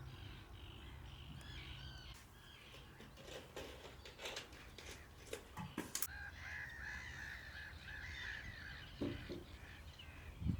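Wild birds calling: a run of short, harsh, repeated calls, with a few sharp clicks about halfway through.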